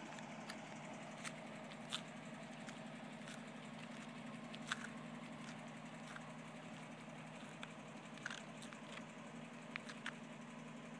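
1962 Toyota FJ40 Land Cruiser's inline-six engine idling steadily, with a few short sharp clicks scattered through.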